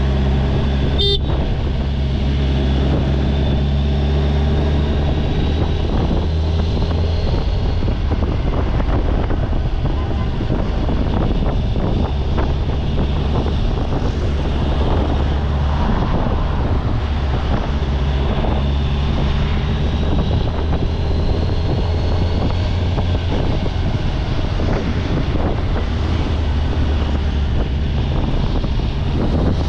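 Kawasaki Ninja 1000SX inline-four engine running under way, with road and wind noise and the pitch rising slowly now and then as it speeds up. There is a short beep about a second in.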